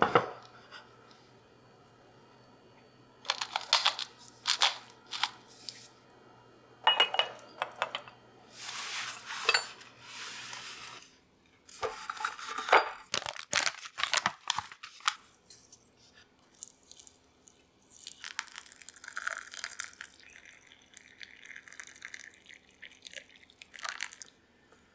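Close-up kitchen handling sounds: rustling and tearing of what sounds like packaging, broken up by sharp clicks and knocks of dishes or utensils, with a low hum that stops about halfway through.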